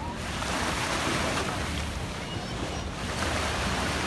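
Wind rumbling on the microphone over lake water splashing and lapping, swelling and easing every second or so.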